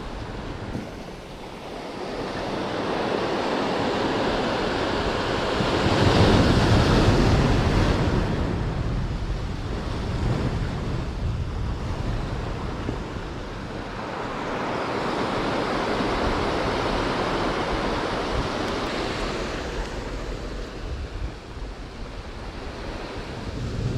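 Sea surf breaking on the shore, the wash swelling and falling away twice, loudest about a quarter of the way in and again past the middle, with wind on the microphone.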